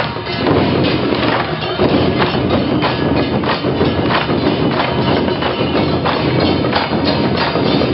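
Loud percussion music, many sharp strikes coming quickly one after another over a dense, continuous din.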